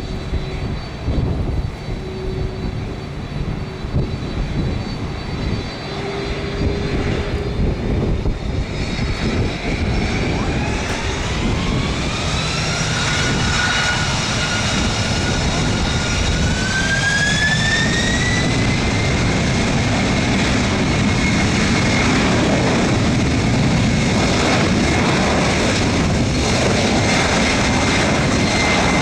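Jet airliner engines spooling up to takeoff thrust, over a steady rumble. A whine rises in two steps, pausing briefly between them, then holds steady as the sound grows louder.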